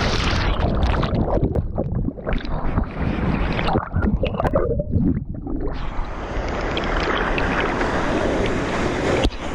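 Rushing water of a waterfall, a loud, uneven rush, with wind buffeting the microphone; the hiss thins briefly around five seconds in.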